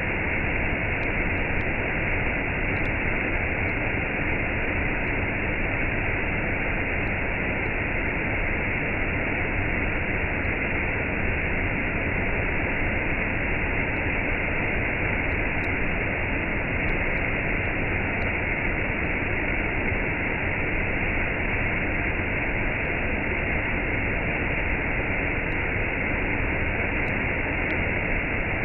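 Waterfall with cascades: a steady, unbroken rush of falling water.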